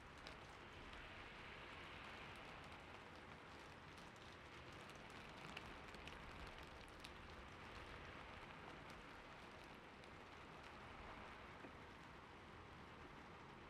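Faint, steady rain ambience, with a few soft scattered ticks.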